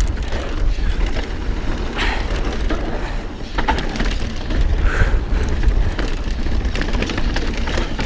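Mountain bike riding over a rough dirt trail: tyres rolling and crunching over the ground, with the bike rattling and clicking over bumps. A heavy low rumble of wind on the camera microphone runs under it.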